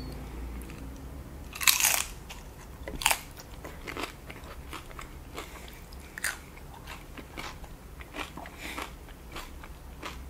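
A cheese-covered tortilla chip being bitten and chewed. There is a loud crunch about two seconds in and another about a second later, then softer crunches as it is chewed.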